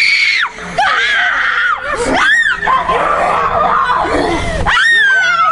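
People screaming, a series of loud, high-pitched shrieks that rise and fall in pitch and overlap one another.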